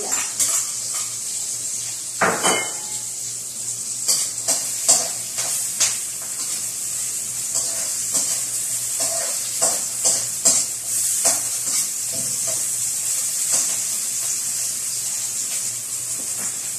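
Chopped aromatics sizzling in hot oil in a wok, with a steady high hiss. A metal spatula stirs them, scraping and clinking against the pan at irregular moments; the loudest scrape comes about two seconds in.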